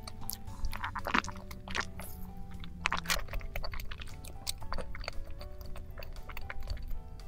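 Close-miked chewing and wet mouth clicks of someone eating soft orange cake, with the loudest smacks about one and three seconds in, over light background music.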